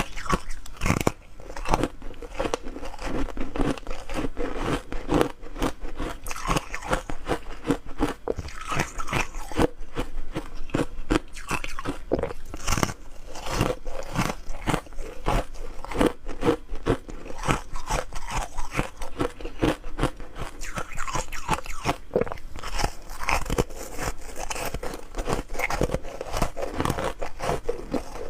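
Someone biting and chewing hard ice close to the microphone: rapid, sharp crunches and cracks, many a second, continuing without a break.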